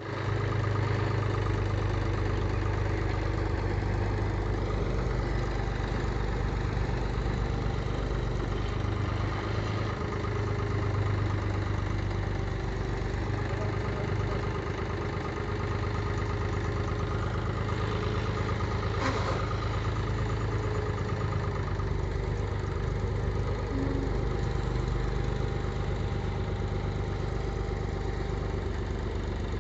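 Tractor's diesel engine running steadily at a constant speed, a deep even hum, with one brief click about two-thirds of the way through.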